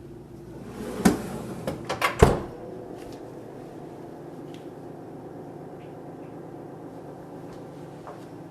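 Built-in Sub-Zero refrigerator-freezer: a few knocks of the freezer door being handled and shut about one to two seconds in, then the freezer's steady running hum with a faint tonal whine, the loud noise that comes from the freezer compartment.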